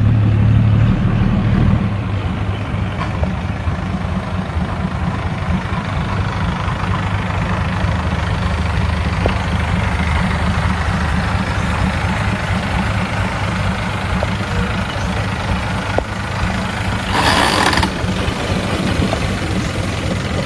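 Engine running steadily at an even speed, with a brief burst of noise about seventeen seconds in.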